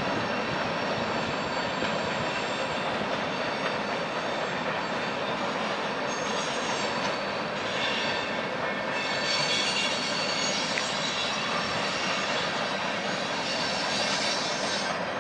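Train cars rolling past with a steady rumble and grind of wheels on rail, with high-pitched wheel squeal coming and going in the second half.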